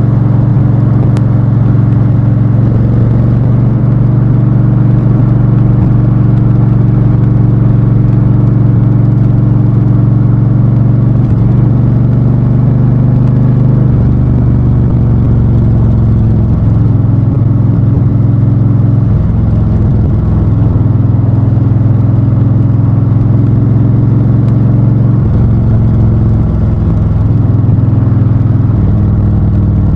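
Honda Fury's V-twin engine and exhaust running steadily while riding, its note shifting a little in pitch a few times as engine speed changes.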